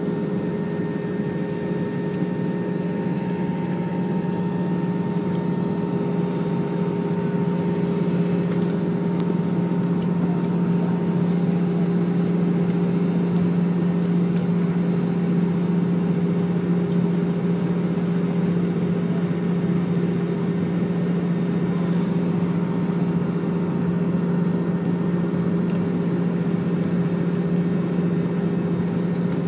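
Steady drone of an Airbus A320 airliner heard inside the passenger cabin, with a strong low hum and a higher steady tone. It grows slightly louder about ten seconds in.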